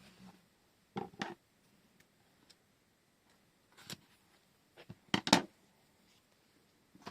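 Small craft items being handled on a tabletop: light clicks and taps, a pair about one second in and a sharper, louder cluster about five seconds in.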